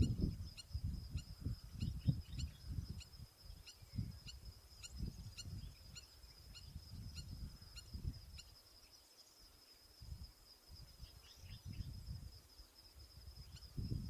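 Birds giving many short, high calls in quick succession over wind rumbling on the microphone, with a steady high-pitched whine throughout.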